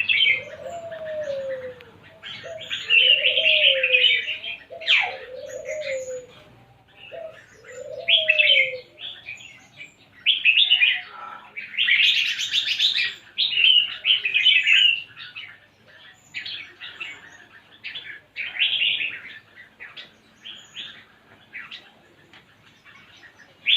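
Red-whiskered bulbul singing in lively form: short bursts of bright, chattering phrases, repeated with brief pauses. A lower, rising-and-falling note sounds four times in the first nine seconds.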